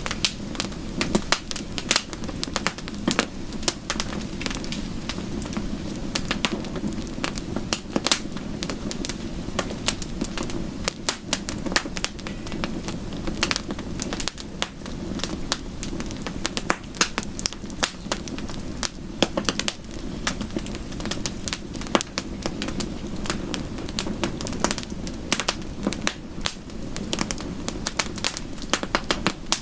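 Wood fire crackling, with frequent irregular sharp pops and snaps over a steady low rushing bed.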